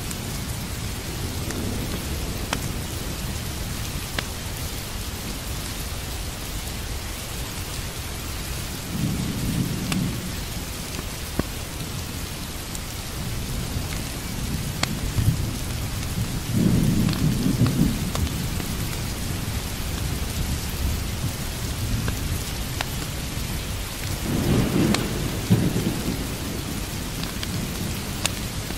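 Steady heavy rain with three low rolls of thunder, about a third of the way in, past halfway, and near the end. Scattered sharp pops and clicks sound over the rain.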